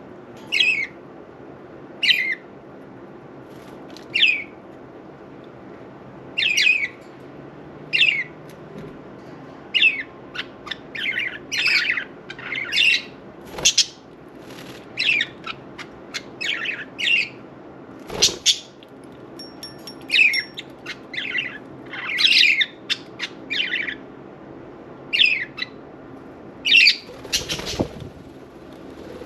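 Budgerigars calling with short, high chirps and squawks, scattered irregularly and sometimes in quick clusters, over a steady faint background noise. A brief noisy burst comes near the end.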